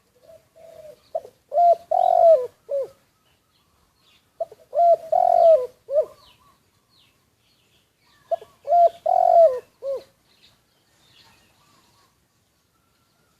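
Spotted dove cooing: three phrases of several low coos each, a few seconds apart, with faint chirps of small birds in between.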